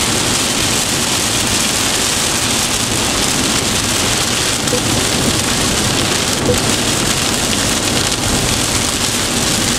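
Heavy rain pelting a car's windscreen, heard from inside the cabin while driving, as a dense, steady hiss.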